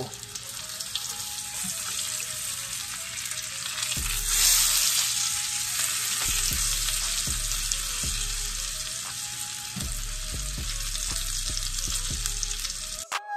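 Salmon fillet sizzling steadily in melted butter in a nonstick frying pan. The sizzle swells about four seconds in as the fillet is turned over with tongs and a spatula, with a few light knocks of the utensils against the pan.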